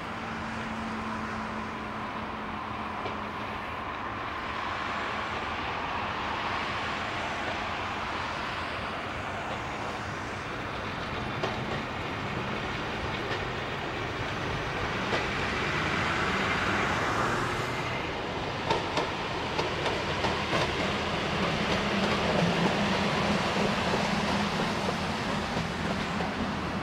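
Two coupled vintage electric railcars, the ET 91 'glass train' and an old Trossingen railcar, rolling slowly past with a steady running noise that grows louder as they pass. In the second half the wheels click over the rail joints.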